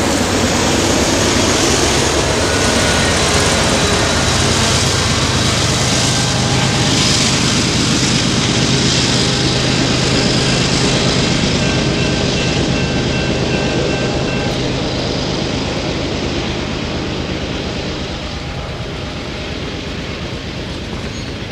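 Freight train of boxcars passing close by, steel wheels rumbling and clattering on the rails, with the diesel locomotive units at the rear of the train going by. The sound eases off over the last few seconds as the train moves away.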